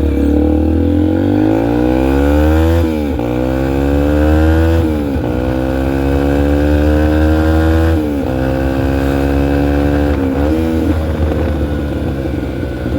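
2003 Yamaha TTR125L's single-cylinder four-stroke engine pulling the bike along: its pitch climbs, drops sharply about three, five and eight seconds in as it shifts up through the gears, dips briefly near the end and then eases off.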